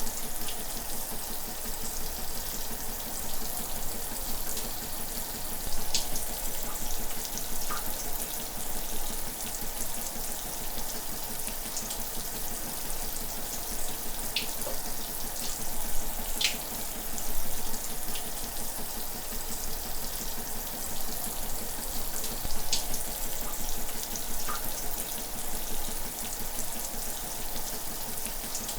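Shower running steadily, a continuous spray of water hiss, with a few sharper splash ticks now and then.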